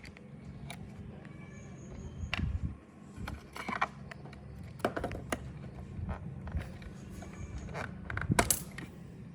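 Small parts being handled at a workbench: scattered clicks, taps and short scrapes, with a cluster of sharper clicks near the end, over a low steady hum.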